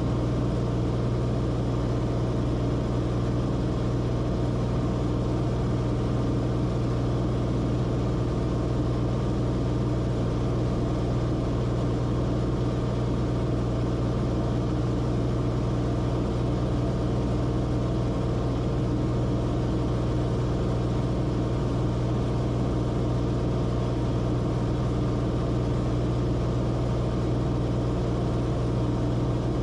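Steady in-cabin drone of a Cessna Corvalis TTX in flight: its turbocharged six-cylinder engine and propeller running at a constant power setting, a low steady hum with no change in pitch or level.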